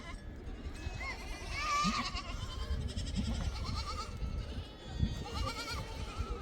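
Goats bleating, several short wavering calls one after another, over a steady low background rumble.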